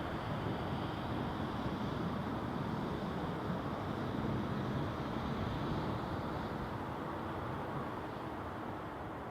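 Jet engine noise from a Boeing 747-400F's four General Electric CF6-80C2 turbofans: a steady rushing that slowly fades.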